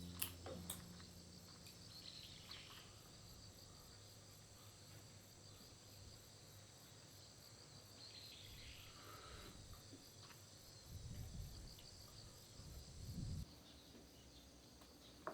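Faint, steady high-pitched chirring of insects, crickets among them, with a brief low rumble near the end.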